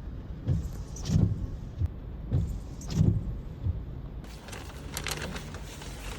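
Car driving, heard from inside the cabin: a steady low road and engine drone with several dull low thumps. A higher hiss comes up about four seconds in.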